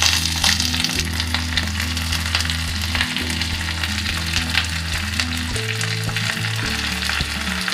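Sizzling and crackling of basil leaves and sesame-oil sauce in a clay pot over a low gas flame, with many small pops throughout; cooked three-cup chicken then sits in the pot on top of them.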